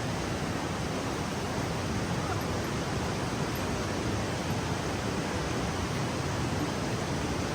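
Steady rush of a fast-flowing rainforest river and waterfall, running high and strong after heavy rain.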